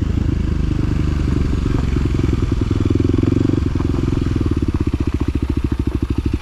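Side-by-side UTV engine running at low speed, then settling to an idle with distinct, even firing pulses about halfway through.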